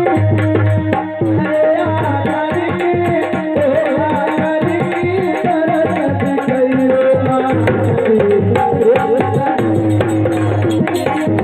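Indian devotional music: tabla playing a steady rhythm under held tones and a winding melodic line.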